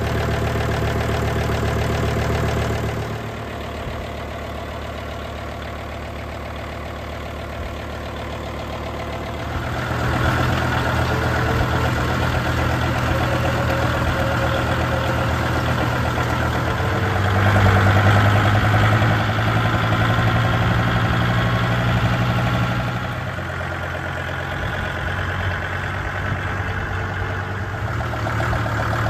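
Kubota L3750 tractor's diesel engine running as it warms up after a start. Its note drops a few seconds in, rises again around ten seconds, is loudest around eighteen to twenty-two seconds, then eases off.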